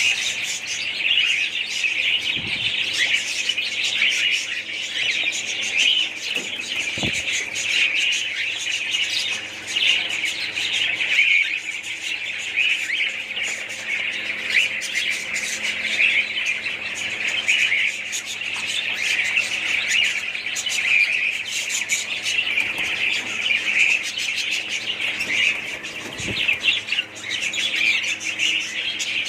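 A flock of budgerigars chattering continuously, many birds chirping and warbling over one another.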